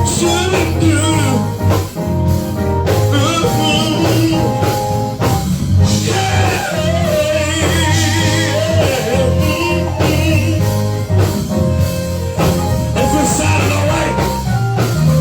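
Live gospel praise music from a band, with bass, guitar and drums, and a voice singing wavering runs over it.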